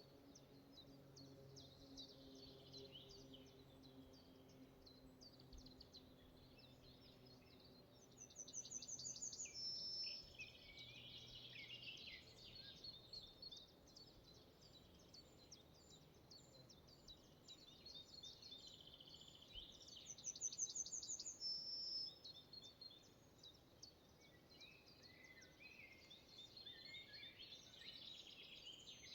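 Forest ambience of several songbirds singing and chirping, faint overall, with two louder song phrases of rapid repeated notes about eight and twenty seconds in. A faint low hum is present early on and fades away.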